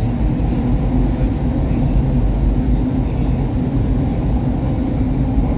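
SEPTA Market-Frankford Line train running between stations: a steady, loud low rumble of wheels and motors with a constant low hum.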